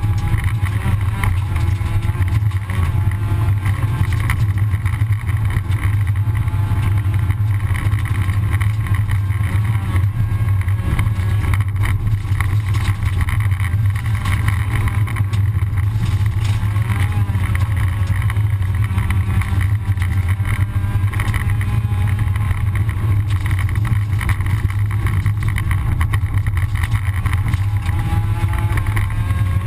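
Rally car engine heard from inside the cockpit, running hard at speed, its pitch rising and falling as the driver shifts and lifts, over steady road and gravel noise.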